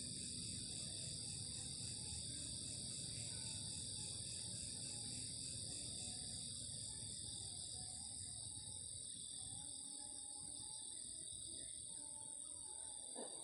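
An insect chorus of steady high-pitched trilling at several pitches at once. A rapidly pulsing trill among them fades out about halfway through.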